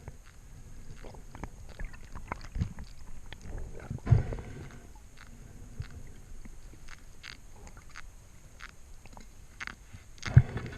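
Underwater sound during a spearfishing dive: scattered sharp clicks and crackles throughout, with a heavier knock about four seconds in and another near the end.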